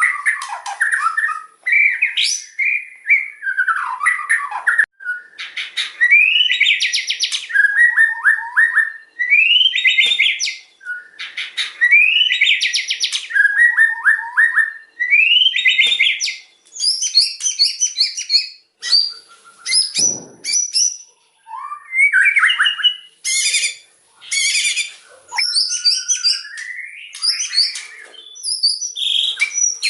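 White-rumped shama (murai batu) singing loudly and without pause. Its song is a varied string of rich whistled phrases, rising slurred notes and fast rattling trills, with some phrases repeated.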